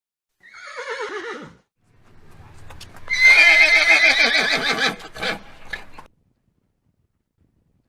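Horse whinnying: a short call that falls in pitch, then after a brief pause a louder, longer, quavering whinny that tails off in a few short snorts and breaths.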